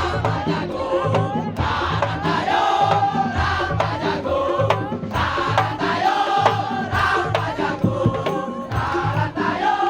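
Madurese daul (tongtong) music: a percussion ensemble's drums beat a steady repeating rhythm under a wavering melody line.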